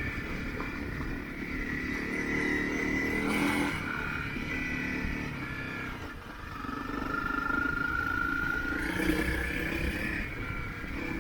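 Motorcycle engine running under way, its pitch rising and falling with the throttle. It eases off briefly about six seconds in, then climbs again as the bike accelerates.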